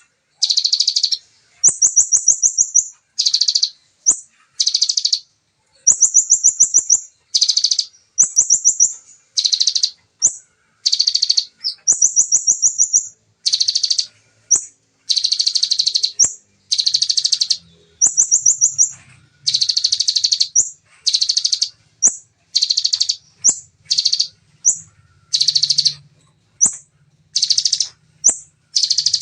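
Bar-winged prinia (ciblek) singing rapid-fire 'tembakan' phrases: high, fast trills and buzzy bursts about a second apart, one after another without a break in the pattern.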